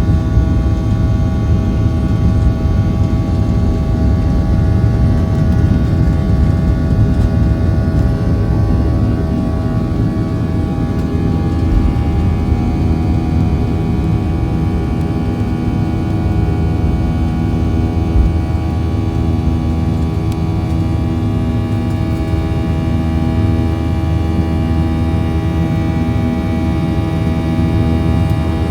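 Boeing 737-800's CFM56-7B jet engines heard from inside the cabin: a loud, steady drone with several steady whining tones over a low rumble that eases slightly about ten seconds in.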